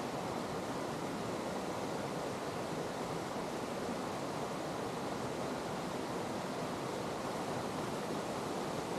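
Steady rushing of a mountain creek, an even, unbroken flow of water.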